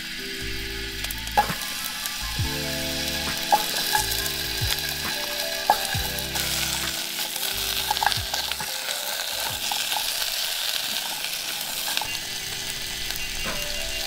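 Steady sizzling hiss with scattered sharp crackles from cooking over a small wood-burning stove, under background music with held low notes.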